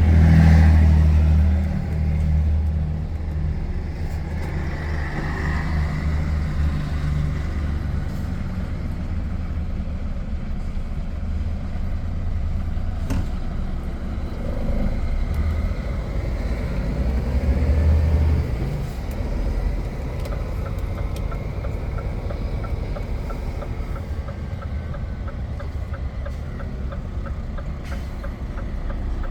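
Diesel truck engine heard from inside the cab, running under load with a deep rumble that swells at the start and again about eighteen seconds in, then settles lower and steadier. Over the last ten seconds a regular light ticking runs alongside it.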